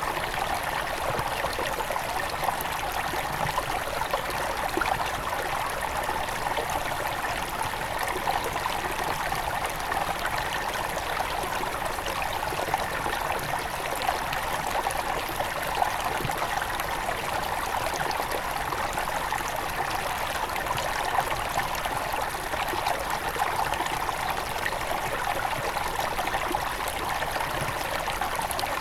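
Small mountain river near its source, water running and trickling over stones in a steady, bubbling babble.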